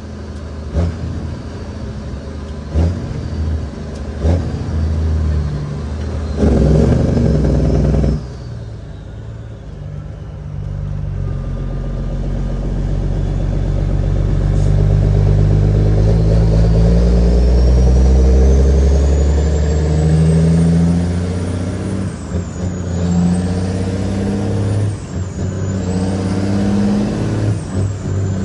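Caterpillar 6NZ (C15) inline-six diesel in a heavily loaded Kenworth W900L pulling hard. Early on there are a few knocks and a loud burst of noise that cuts off suddenly. Then the engine note and the turbo whistle climb steadily for about ten seconds, and near the end they dip and come back up three times as the driver shifts up through the gears.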